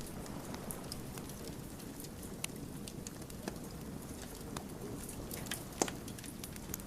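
Wood fire burning: a steady low rush with scattered sharp crackles and pops of the burning logs, the loudest pop near the end.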